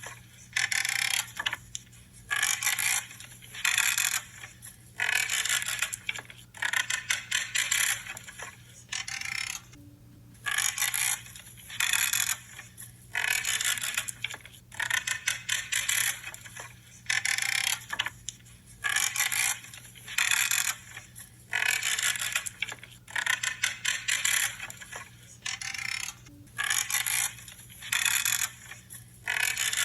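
Branches being cut one after another: a string of crisp crunching, creaking cracks, about one or two a second, with a short pause about ten seconds in.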